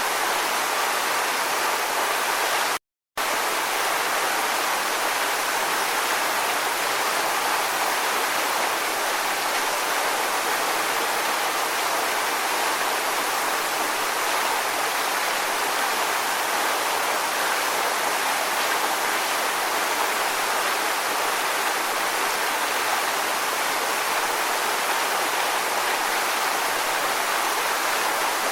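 Steady, even rushing of water, with no swells or breaks in level. About three seconds in it cuts out to total silence for a fraction of a second, then resumes unchanged.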